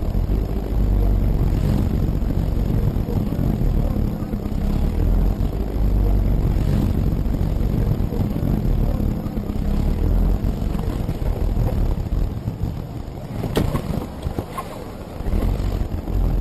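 Loud low rumble of a moving vehicle, with a sharp knock near the end and a lighter one a second after.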